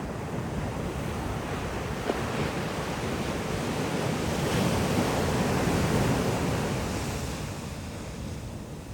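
Ocean waves breaking on a beach: a wash of surf that swells to a peak midway and then recedes, with some wind on the microphone.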